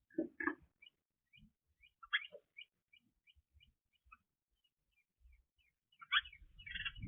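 Small birds chirping: a steady run of short, high chirps at about three a second, broken by louder calls near the start, about two seconds in, and near the end.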